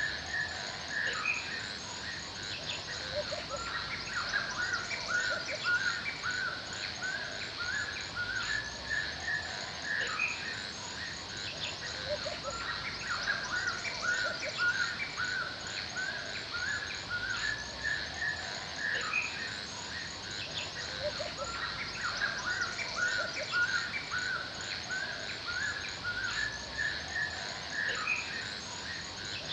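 Forest ambience: many birds chirping in short, overlapping calls throughout, over a steady high-pitched hiss.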